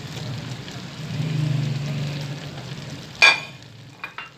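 Mutton liver sizzling gently in oil in an aluminium karahi as cumin seeds are scraped in from a plate with a spatula. About three seconds in comes a sharp, ringing clack of kitchenware, then two light clicks.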